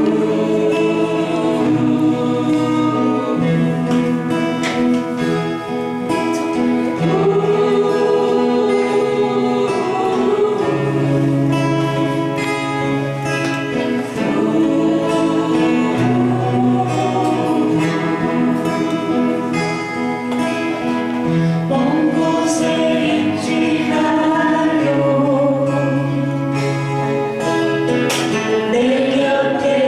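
Several voices singing a slow song together, accompanied by acoustic guitar.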